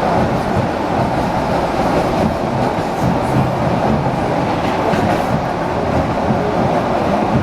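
ED4M electric multiple unit running between stations: a steady rumble of wheels on the rails, with a faint clickety-clack.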